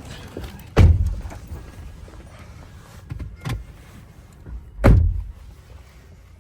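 Two heavy thumps about four seconds apart, with a few lighter knocks between them.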